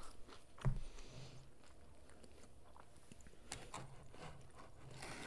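Chewing a mouthful of corn dog, with one dull thump about a second in. Small clicks and rustles of the cardboard box being handled near the end.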